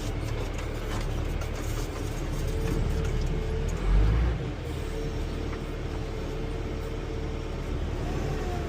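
Heavy diesel machine's engine working under load while pulling a tractor, heard from inside the cab, with a steady whine over the low rumble. A loud low thump comes about four seconds in.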